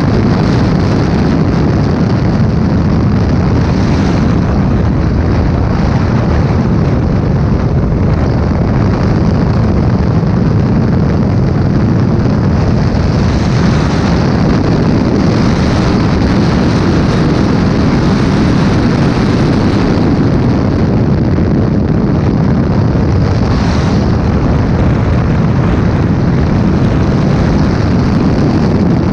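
Heavy wind buffeting on a helmet-mounted camera's microphone at speed, over the running turbocharged flat-twelve engine of a Porsche 917/10 Can-Am car. The noise is loud and steady throughout.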